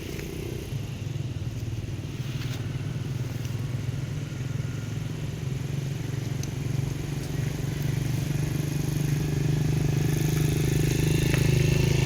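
A motor vehicle's engine running with a steady low drone that grows gradually louder, with a few faint clicks.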